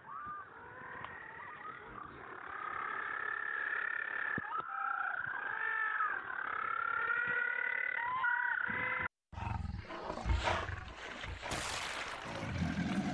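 A colony of African penguins braying, with many long, wavering calls overlapping for about nine seconds. Then the sound cuts off abruptly, and after a brief gap a noisier hissing recording takes over.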